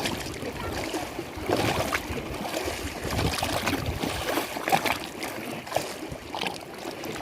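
Lake water sloshing and lapping, with irregular small splashes over a steady wash.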